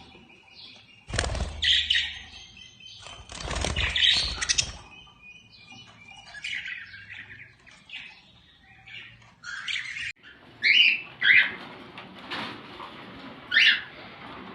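Caged pet birds in a shop chirping, with many short high calls. Two loud noisy bursts in the first five seconds.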